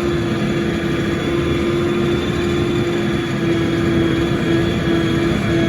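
A tank running on the move: a loud, steady engine drone with a constant humming tone over it.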